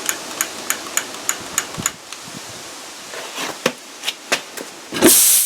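A spark igniter clicking repeatedly, about three clicks a second, then a few more clicks, until lacquer thinner vapour inside a lawn tractor tire ignites about five seconds in with a sudden loud whoosh that fades into a hiss. The flash blows the tire bead onto the rim.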